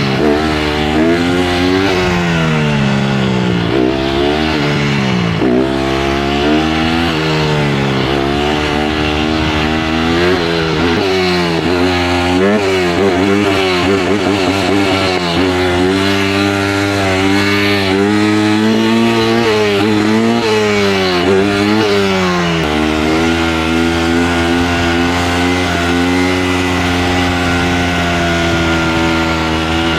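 A 150 cc dirt bike's single-cylinder engine being ridden hard, its pitch rising and falling over and over as the throttle is worked and the bike shifts gears.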